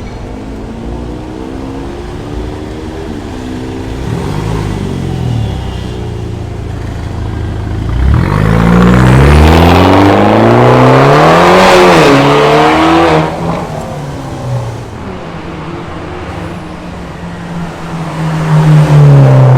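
BMW 316i engine idling through a new full stainless-steel exhaust and custom stainless downpipe. It is blipped briefly about four seconds in, revved up and down between about eight and thirteen seconds, then settles back to idle before another blip near the end.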